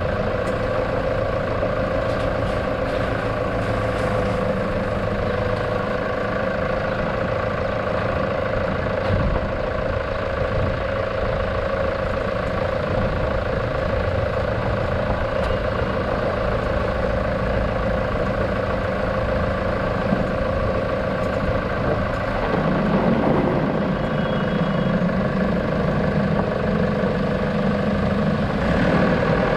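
A motor running steadily with a continuous hum. About 22 seconds in, a deeper rumble joins it and holds to the end.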